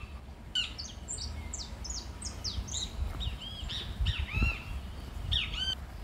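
Songbirds calling: a busy series of short, high, downward-sliding whistles with a few arched chirps, over a low steady rumble.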